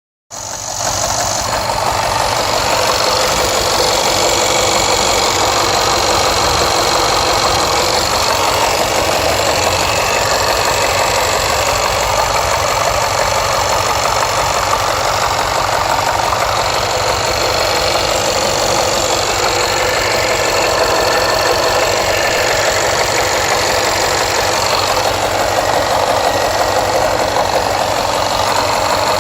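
Jaguar XFR's supercharged 5.0-litre AJ133 V8 running steadily while misfiring on one bank, cylinders 5 to 8. The fault codes point at a fuel pressure regulator problem. The sound comes in sharply at the very start and then holds level.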